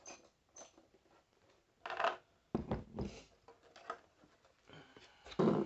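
Intermittent clatter and knocks from handling a plastic toy bank and small tools while its screws are being worked out: several short bursts, the loudest about two seconds in and just before the end.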